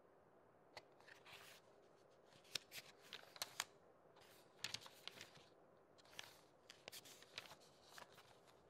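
Faint, irregular clicks and short crackles over a low hiss, starting about a second in and scattered unevenly.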